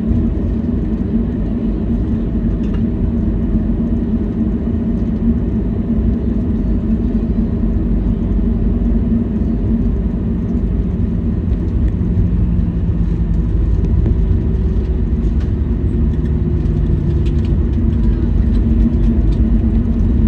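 Steady cabin noise inside a Boeing 737-800 taxiing after landing: its CFM56-7B jet engines running at idle under a low hum, with a second steady tone joining about twelve seconds in.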